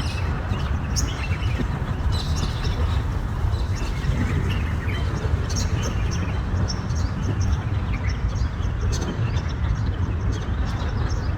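Birds chirping, with short, scattered calls over a steady low background rumble.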